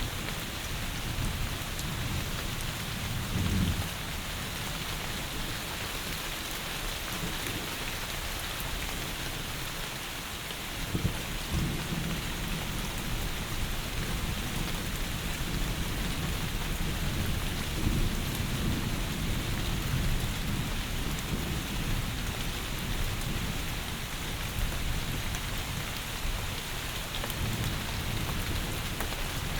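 Heavy rain falling steadily as a dense even hiss, with low rumbles of thunder swelling up now and then.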